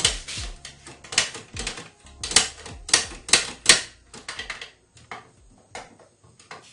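Metal sewing-machine parts clicking and clacking as they are handled: a dense, irregular run of sharp clicks for about four seconds, then a few scattered fainter ones.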